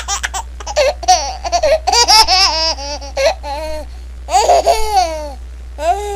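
Baby laughing in quick runs of high-pitched giggles and squeals, with a short pause about halfway through and one more squeal near the end.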